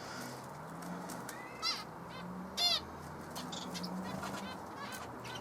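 Small birds calling: scattered short chirps, with two louder, falling chirps in the middle.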